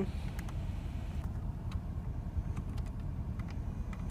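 Steady low rumble inside a parked car, with a few faint clicks.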